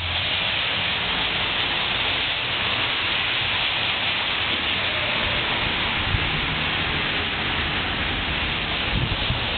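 Steady rain falling, an even dense hiss, with a couple of brief low rumbles midway and near the end.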